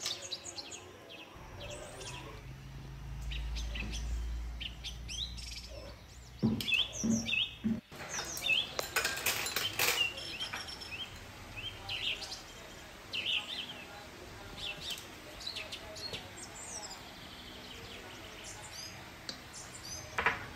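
Small birds chirping in short, high calls again and again. There is a low rumble in the first few seconds, and about a third of the way in a cluster of light knocks and clinks as chopsticks and dishes are set down on a table.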